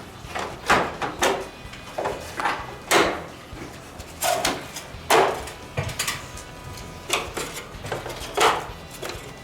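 A series of irregular hard knocks and clacks, about a dozen spaced unevenly, as of rigid parts being handled and set down.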